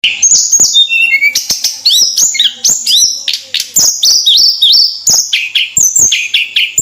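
A tledekan gunung singing nonstop in a loud, rapid run of short whistled notes that sweep up and down, with sharp clicks between them.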